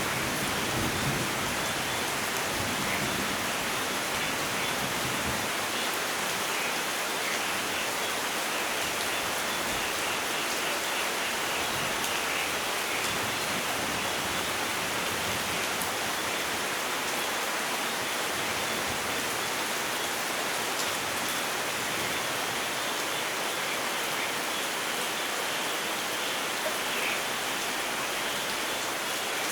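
Steady rain falling, an even hiss of drops. A low thunder rumble fades away in the first couple of seconds.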